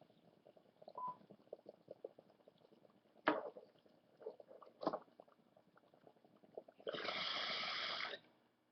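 Handling sounds during a bong session: scattered faint clicks, two sharp knocks about three and five seconds in, then a steady hiss lasting about a second near the end.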